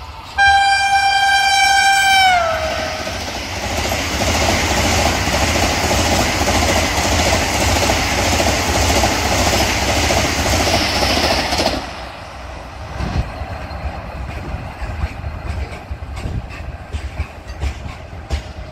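Indian Railways express train sounding a long horn blast whose pitch drops as the train reaches the listener, then the loud rush of the train speeding past. The rush cuts off suddenly about twelve seconds in, leaving a lower rumble with scattered wheel clicks.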